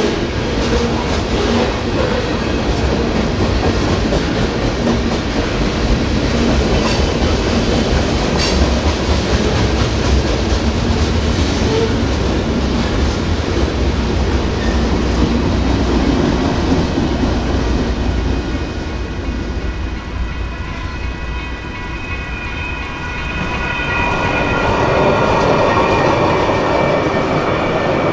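Freight train cars rolling past at a grade crossing, with wheels clacking over the rails. The train noise dips about three-quarters through, and then a Siemens Duewag U2A light rail train passes close by near the end.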